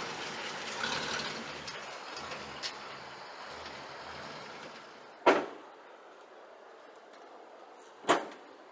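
A vehicle's running noise fades away, then two sharp, loud bangs come about three seconds apart, like heavy doors slamming.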